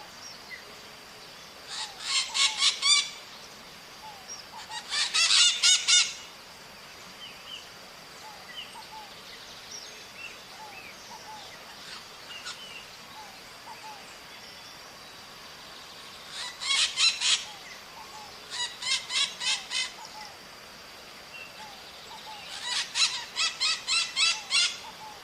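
Maritacas (small Brazilian parrots) calling in five bursts of rapid, harsh screeching notes, each burst lasting a second or two, with faint softer chirps between and a steady high thin whine underneath.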